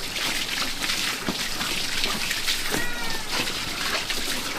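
A domestic cat meowing once, about three seconds in, over a steady hiss of rain.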